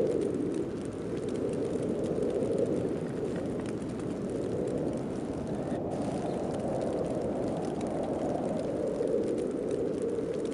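Heavy snowstorm wind blowing as a steady deep rush that swells and eases in slow gusts, with faint fine ticking over it.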